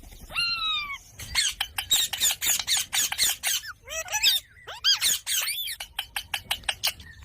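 Ringneck parakeet calling and chattering: a long falling call near the start, then quick runs of clicking chirps broken by a few short arching calls.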